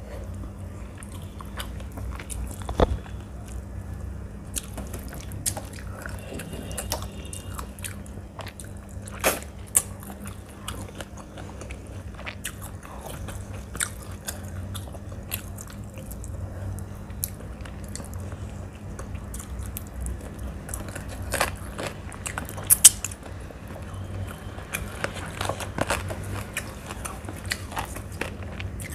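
Close-miked chewing of a mouthful of rice and chicken curry, with wet squishing as fingers mix rice and curry on a metal plate and scattered sharp clicks throughout.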